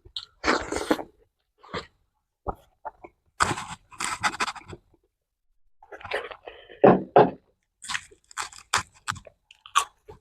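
A person chewing and crunching food close to the microphone, in irregular bursts of crunches with short pauses between.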